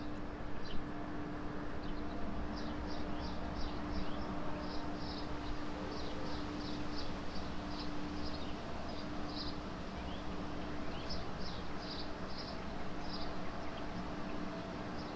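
Outdoor ambience: small birds chirping in short repeated runs of high notes over a steady low hum.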